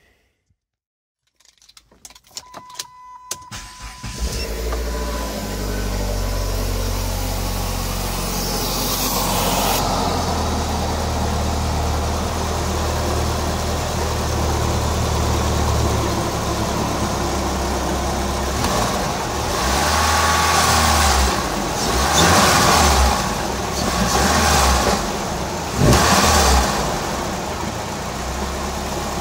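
Chrysler PT Cruiser GT's turbocharged 2.4-litre four-cylinder engine starting a few seconds in and settling into a steady idle. It is revved up several times near the end. The engine has just been repaired after a sheared camshaft gear pin and is running with its valve cover only loosely fitted.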